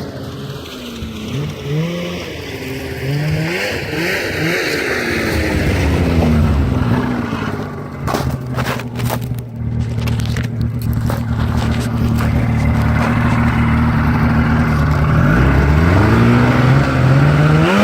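Polaris Edge X snowmobile's two-stroke engine through its stock exhaust, blipped up and down for the first few seconds, then held at a steady speed, and revving up again near the end.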